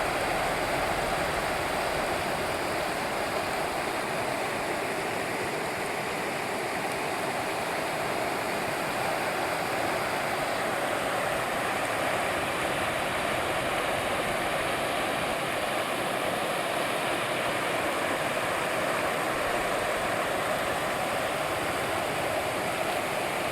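River water rushing in a steady, even wash of sound.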